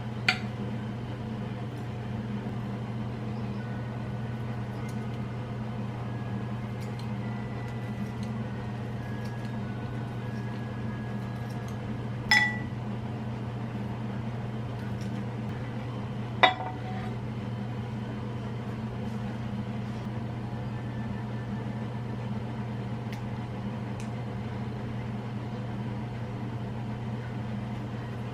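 Kitchen dishes or glassware clinking three times, sharp ringing knocks, over a steady low appliance hum.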